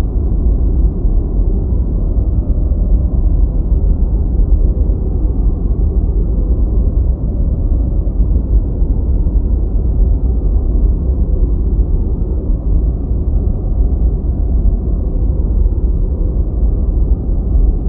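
Steady deep white noise: an even, unbroken hiss heaviest in the low bass and fading out above the midrange.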